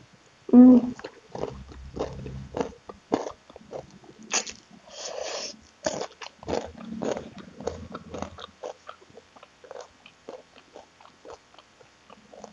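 Close-up eating sounds: biting into and chewing crispy smashed fried chicken (ayam geprek), with irregular crunches, mouth smacks and clicks. A short hummed vocal sound comes about half a second in, the loudest moment.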